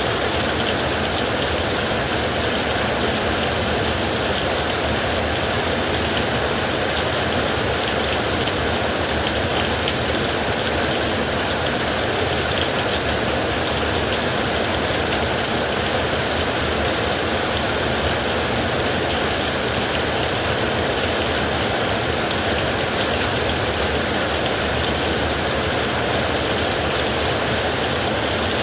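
Heavy rain falling steadily on a roof, an even, unbroken hiss with no separate thunderclaps.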